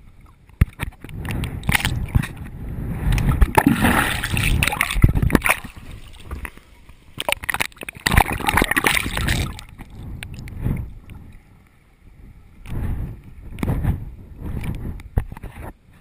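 Water splashing and sloshing close to the microphone in irregular surges, several seconds of heavier churning around the first and middle of the stretch.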